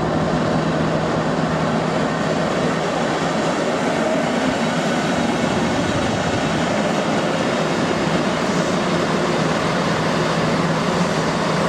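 Train moving at a station platform: a steady running noise with a low, even hum.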